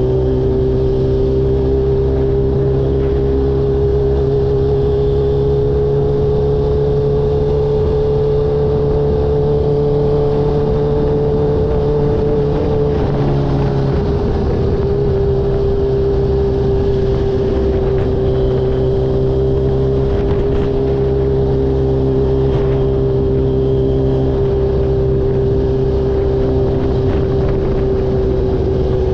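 Kawasaki H2 motorcycle engine running at a steady cruising speed, holding one even pitch with a slight drop about halfway through, then steady again.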